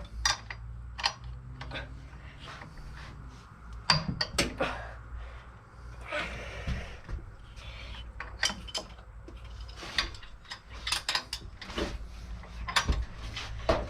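Hand tools working on engine bracket bolts: irregular sharp metal clicks and knocks over a steady low hum.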